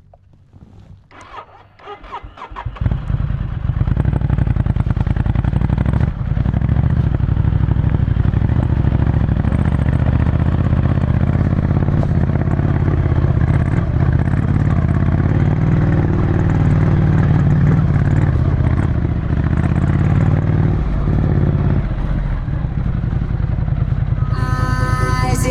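Ducati Scrambler Desert Sled's air-cooled 803 cc L-twin, through a full Termignoni exhaust, starting about two seconds in and then running at a steady idle. Music comes in near the end.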